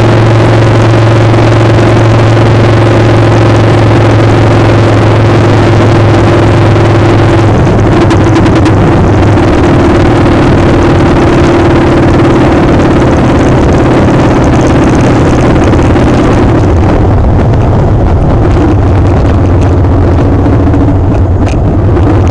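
Motorcycle engine running steadily while under way, with loud wind noise over the microphone. The engine note shifts slightly about a third of the way in, and the hiss of the wind eases near the end.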